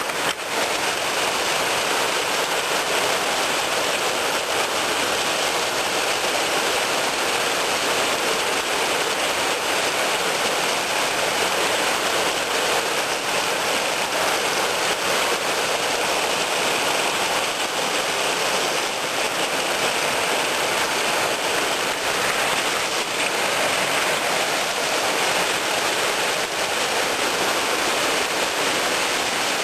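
Super heavy rain falling, a steady, even hiss with no letup.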